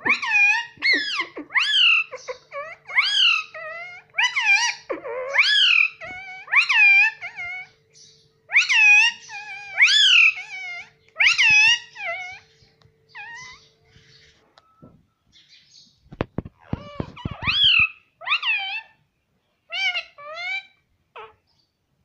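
Indian ringneck parakeet giving a long series of high-pitched calls, about one a second, each rising and falling in pitch. The calls pause briefly after about fourteen seconds for a quick run of taps, then resume for a few more.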